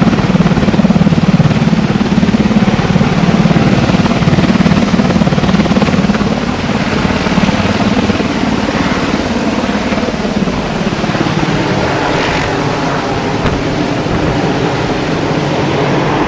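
Firefighting helicopter's rotors and engines running loud and steady, with a low rotor beat. The sound eases off slightly in the second half.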